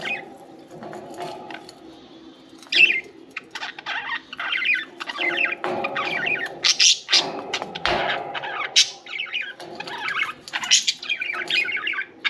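Several budgerigars chirping and chattering: a rapid jumble of high chirps, warbles and short squawks, sparse for the first couple of seconds and then busy and continuous.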